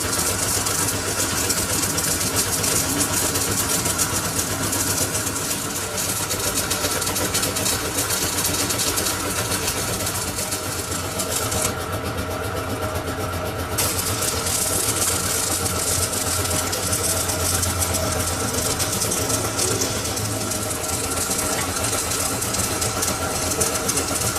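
Metal-turning lathe running steadily, its motor humming under a dense high hiss that drops out for about two seconds partway through.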